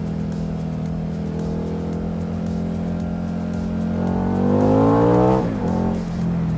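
Motorcycle engine running steadily, then revving up with a rising pitch about four seconds in and falling away sharply just after five seconds.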